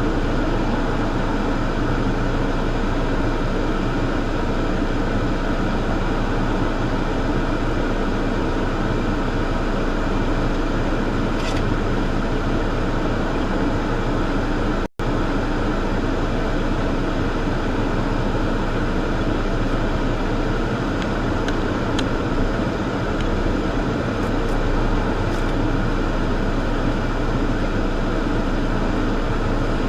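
Steady vehicle hum with a constant fan-like rush, unchanging throughout, briefly cutting out about halfway through.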